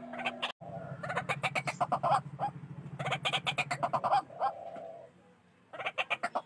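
White-breasted waterhen calling: fast, evenly repeated harsh clucking notes in bursts, with a low pulsing drone beneath the first long burst. The sound cuts out completely for a moment about half a second in, then the calling resumes, fades in a short lull and starts up again near the end.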